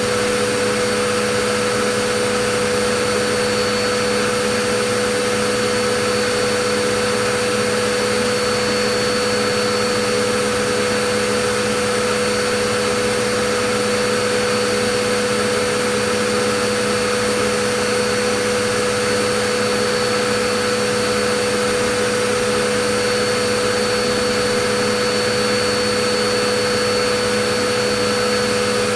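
Vacuum cleaner running continuously at a constant speed: a dense, steady rushing noise with a fixed motor hum and a few high whining tones, unchanging throughout.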